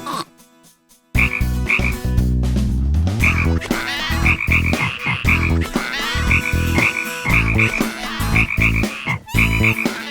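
Cartoon soundtrack of rapid, repeated croaking calls over a dense, heavy low backing, starting suddenly about a second in after a near-quiet moment.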